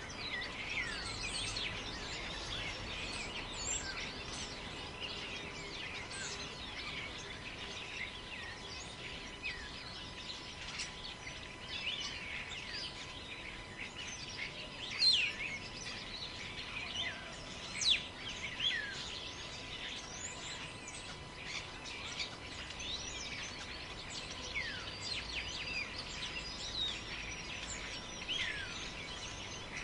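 Many forest birds chirping and calling, with short, mostly falling notes overlapping throughout and two louder calls about halfway through, over a steady soft rush of wind in the trees.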